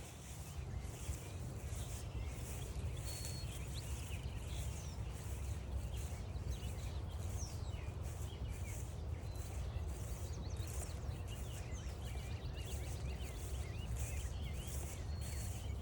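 Footsteps crunching along a forest trail at a steady walking pace, about two steps a second, with small birds chirping and singing all around over a low steady rumble.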